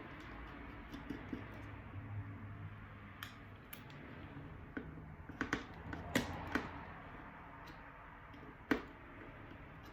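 A handful of small, sharp clicks and taps from handling small parts during a drone repair, over a steady low hiss. They are scattered, with a cluster a little past the middle.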